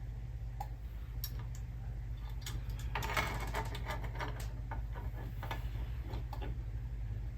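Scattered small clicks and scraping as carburetor parts are handled while a new gasket is fitted, busiest a few seconds in, over a steady low hum.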